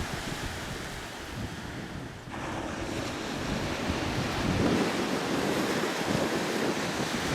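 Waves breaking and washing up a sandy beach, with wind buffeting the microphone; the surf grows louder about halfway through.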